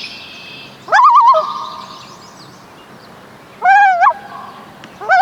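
Common loon giving loud, quavering, wavering calls three times: about a second in, again near the middle, and once more starting at the end.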